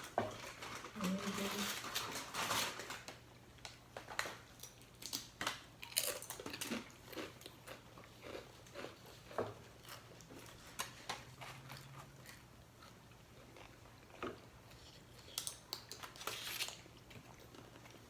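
People chewing and crunching food close to the microphone: irregular crisp crunches and mouth noises, densest in the first few seconds and then scattered.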